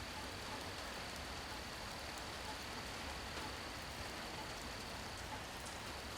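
Steady rain falling, an even hiss with scattered faint drop ticks. A thin high steady tone runs underneath and drops out briefly about five seconds in.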